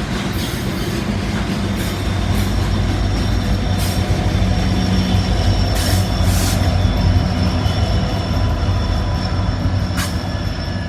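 Norfolk Southern freight train's cars rolling past with a steady rumble. Thin, steady wheel squeal rides over it, and there are a few sharp clicks.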